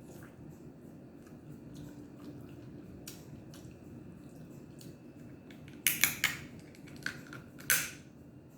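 Eating at a table: quiet small clicks and handling noises, then a few loud, sharp clicks and cracks about six seconds in and once more near the end.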